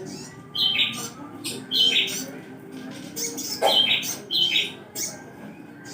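Sogon bird song from a masteran recording: short, repeated calls about a second or so apart, over a steady low hum.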